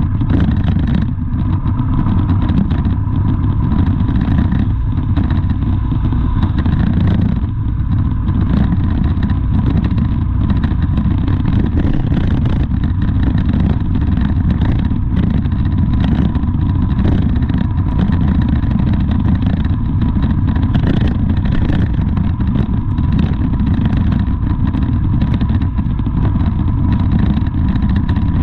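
Steady, loud low rumble of a motor vehicle running, with a faint steady whine on top.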